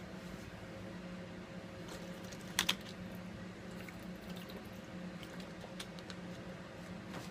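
Light clicks and taps from handling a Samsung Galaxy S5, with a sharp double click about two and a half seconds in and scattered faint ticks, over a steady low hum.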